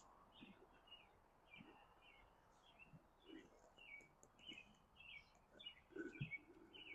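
Faint birdsong: a steady run of quick, short chirps, several each second. Light handling noise, with a soft thump about six seconds in.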